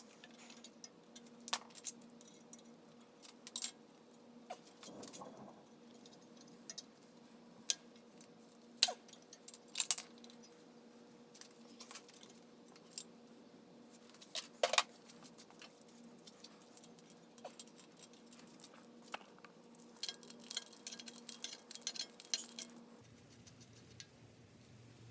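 Scattered metallic clinks and taps of tools and engine parts being handled, with a flurry of rattling clinks near the end, over a faint steady hum.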